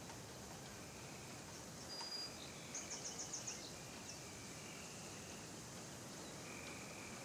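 Birds calling outdoors over a steady hiss: a short call repeats every couple of seconds, a single high whistle sounds about two seconds in, and a quick trill of about seven high notes follows around three seconds in.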